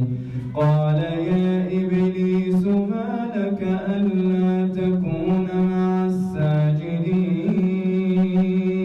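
A man reciting the Quran in melodic tajwid chant: long, held, ornamented notes from a single voice, with short breaths between phrases.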